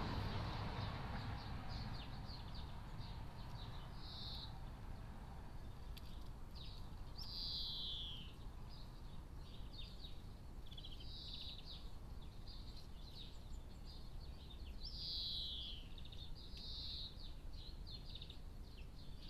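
Songbirds singing in short high notes and trills, with a falling slurred phrase that comes twice, over a steady low background rumble.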